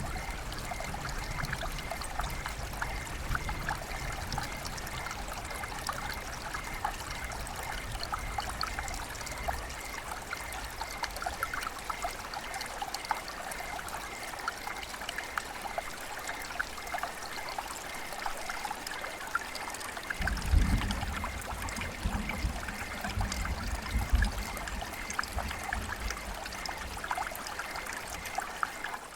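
River water flowing and trickling steadily. A low rumble comes in about two-thirds of the way through for a few seconds.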